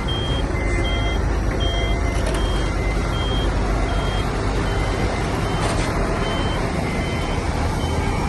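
Heavy diesel earthmoving machinery running with a steady low rumble, while a reversing alarm beeps about once a second over it.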